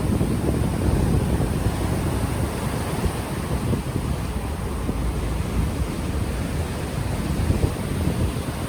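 Ocean waves washing in, with wind buffeting an unshielded microphone; the low, gusty rumble of the wind is the loudest part, over the steady hiss of the surf.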